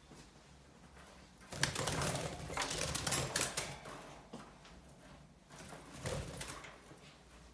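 Pet birds moving about: a burst of rustling and rapid clicking starts about a second and a half in and lasts a couple of seconds, with a shorter burst near the end.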